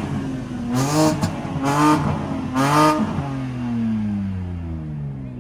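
A car engine revved hard three times in quick succession, about a second apart, each rev rising sharply in pitch, then a long falling tone as the engine drops back or the car moves off.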